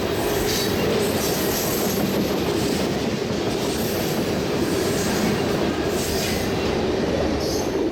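Loaded crude-oil tank cars of a freight train rolling past: a steady, loud rumble of steel wheels on rail, with brief high wheel squeals now and then.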